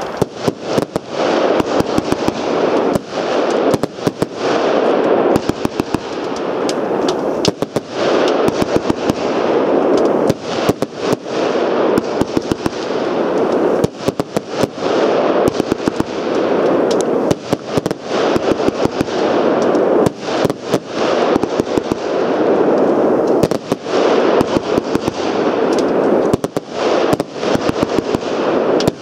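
Heron PSP 3-01 firework going off: a continuous hiss that swells and fades every couple of seconds, with many sharp cracks throughout.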